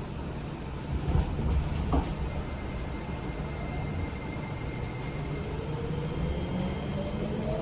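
Seibu 20000 series train running, heard from inside the car: a steady rumble with a few knocks of wheels over rail joints a second or two in, then the Hitachi IGBT-VVVF inverter and traction motors whining, rising in pitch from about five seconds in as the train accelerates.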